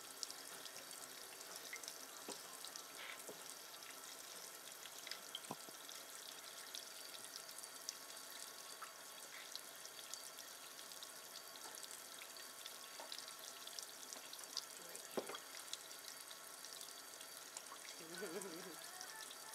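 Faint, steady hiss of water running into a sink, with many small scattered drips and splashes as a cockatiel bathes in it.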